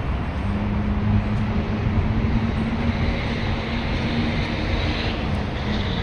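Car on the move, heard from inside: steady road and tyre rumble with a low, even hum from the engine and drivetrain that fades out near the end.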